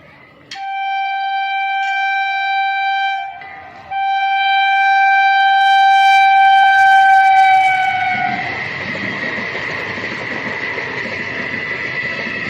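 Indian Railways EMU local train sounding its horn in two long blasts, the second dropping slightly in pitch as it ends, then running past with a rattling rumble of wheels on rail and a steady high whine.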